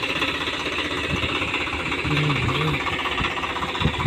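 Swaraj 735 tractor's three-cylinder diesel engine running at idle, a steady rapid diesel clatter.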